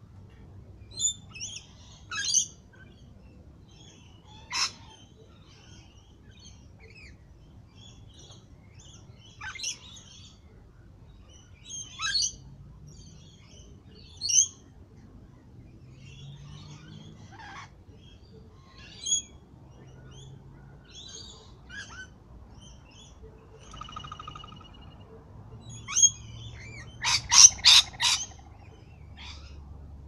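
Wild birds calling: short, sharp chirps every couple of seconds, with a quick run of four loud calls near the end.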